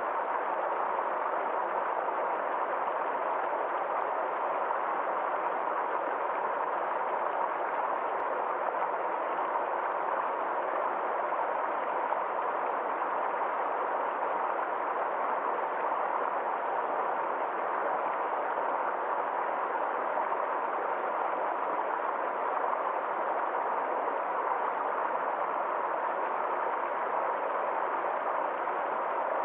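Steady rush of water flowing in a forest stream, an even sound that does not change.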